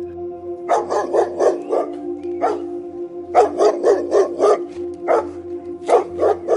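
Dog barking in quick runs of five or six barks, with single barks between, over a steady background music drone.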